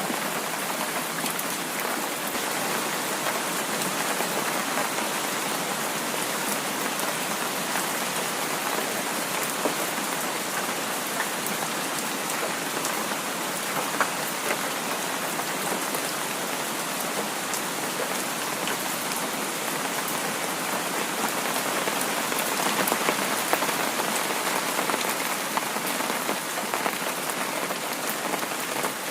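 Heavy rain falling steadily, a dense hiss of rain with individual drops pattering through it. It swells a little around two-thirds of the way in.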